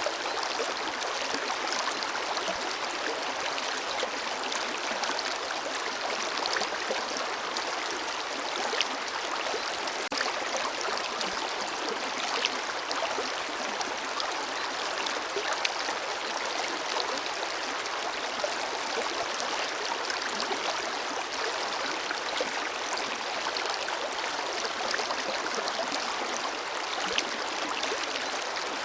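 Forest river flowing steadily: an even rush of water with small splashes scattered through it.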